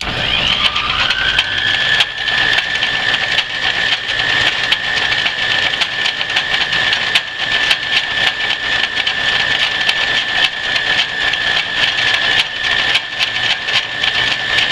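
Antique Rockford lathe running with a drill chuck in the spindle: it starts at once, a whine rising in pitch over the first second or so as it comes up to speed, then running steadily with a continuous mechanical hum and faint ticking.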